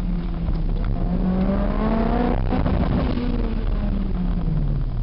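Car engine on an autocross run, revving up under acceleration, a short break just before halfway, then the revs falling off through the last two seconds as the car slows.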